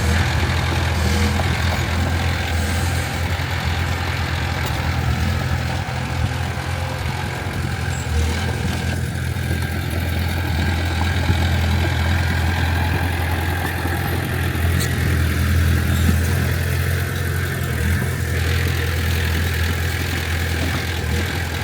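Heavy diesel engine of earthmoving machinery running steadily with a deep, even hum, holding nearly constant speed.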